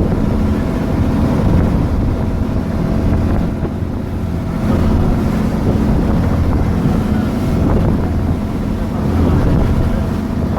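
Tour boat's engine running steadily under way, with wind buffeting the microphone and the rush of water along the hull.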